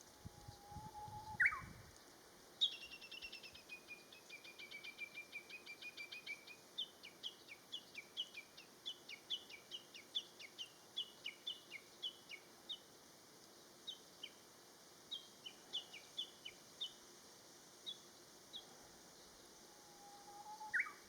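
Japanese bush warbler singing: a long held whistle ending in a quick upward flourish (the 'hoo-hokekyo' song), then a long run of quick, repeated short notes that thins out and slows over about fifteen seconds. Another held whistle with a rising flourish comes near the end.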